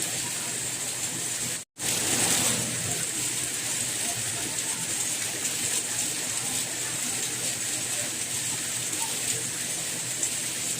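Steady rain, an even hiss, with a momentary cut to silence under two seconds in, after which it comes back slightly louder for about half a second.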